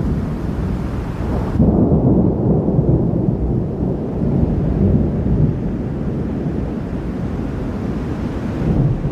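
Thunder rumbling low and loud after a lightning strike, growing louder about a second and a half in.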